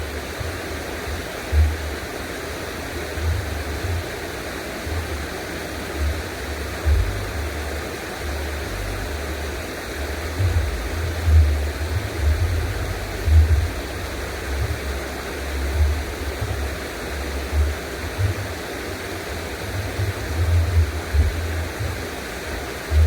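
Steady rush of flowing water, like a stream or a weir, with uneven low rumbles throughout.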